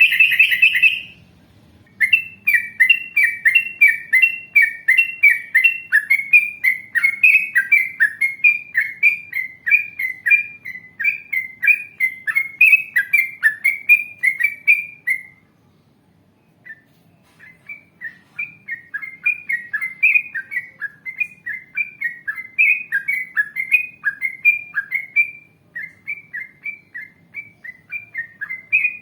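Yellow-vented bulbul (trucukan) singing a long, rapid run of short repeated notes, about three a second, in the fast-chattering 'ropel' style. The song breaks off for about two seconds midway, then resumes, with a brief pause again near the end.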